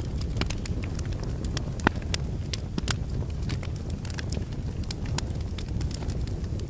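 Logs burning in a fireplace: a steady low rumble of flame with frequent sharp crackles and pops, one louder pop about two seconds in.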